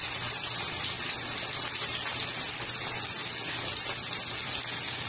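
Chicken pieces shallow-frying in oil in a pan, a steady sizzle with faint fine crackles.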